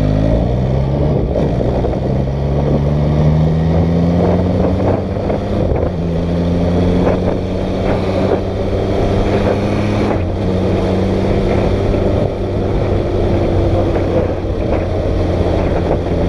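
MV Agusta 675's three-cylinder engine running under way, its pitch slowly rising, then dropping at gear changes about six and ten seconds in. Steady wind rush on the microphone underneath.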